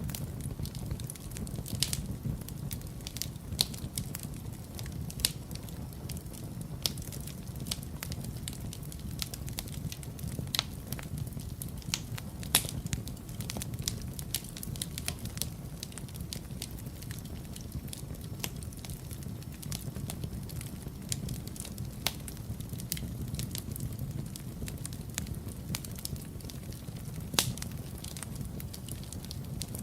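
Fireplace fire burning, with a steady low rumble and constant irregular crackling, broken by a few louder pops, the sharpest about halfway through and another near the end.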